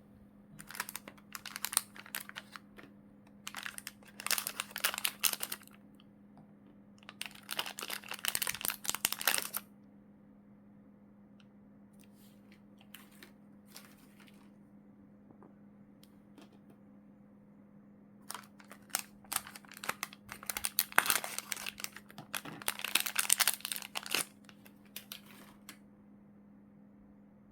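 Plastic packaging bags crinkling as they are handled and opened, in several bursts with a quiet stretch of about eight seconds in the middle. A faint steady hum runs underneath.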